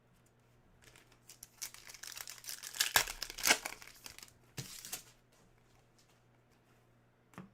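Trading card pack wrapper crinkling and being torn open, with the loudest tears about three seconds in. A single short click comes near the end.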